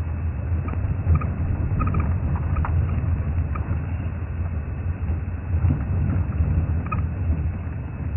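Safari game-drive vehicle driving on a dirt track, a steady low engine and road rumble, with a few brief high chirps or squeaks scattered through it.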